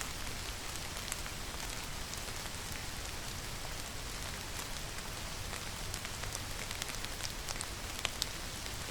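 Steady rainfall, an even hiss dotted with frequent sharp ticks of individual drops striking close by.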